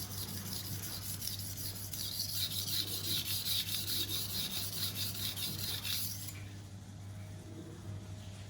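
Stainless steel chef knife blade stroked rapidly back and forth on a wet Naniwa 320-grit whetstone, a rasping grind while touching up the edge near the tip. The strokes die away about six seconds in.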